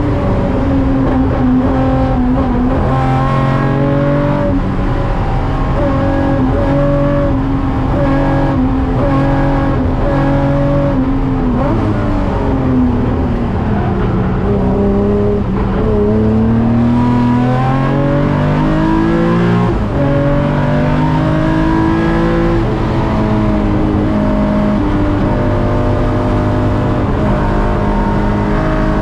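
Nissan Fairlady Z S30's modified 3.1-litre L28 straight-six, on triple Solex carburettors and a large-bore racing exhaust, pulling hard under racing load and heard through the onboard camera's microphone. The revs hold high, fall away over a few seconds, then climb again with a brief dip about 20 seconds in, and hold high near the end.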